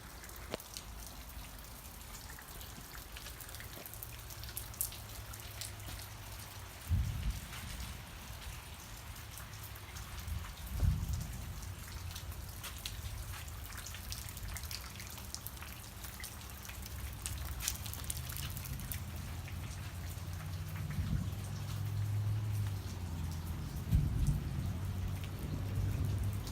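Rain falling, with many individual drops pattering close by. A low hum comes and goes underneath, with a few dull thumps.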